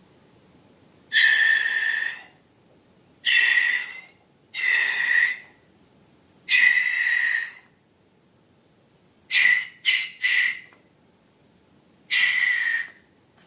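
Air squealing out through a balloon's stretched neck in eight short, high whistling bursts, the last few coming quickly in a row.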